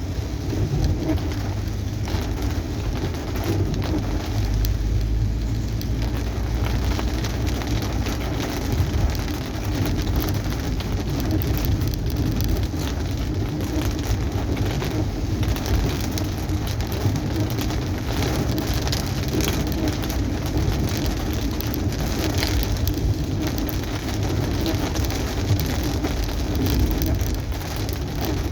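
Rain pattering on a moving car, with many small drop impacts over a steady low rumble of the car and its tyres on the wet road.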